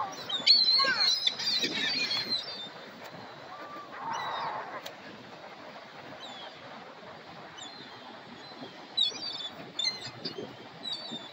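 Seagulls calling: a burst of high squawks in the first two seconds, then quieter, with a few short sharp calls again near the end.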